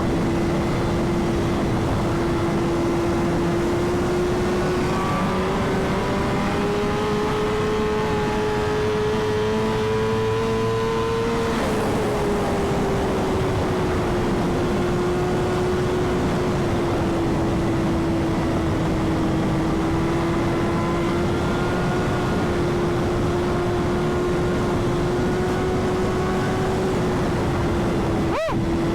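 Sport motorcycle engine running at steady high revs under way, heavy wind rush on the microphone. About a third of the way in the engine note climbs gradually, then drops back and holds steady again.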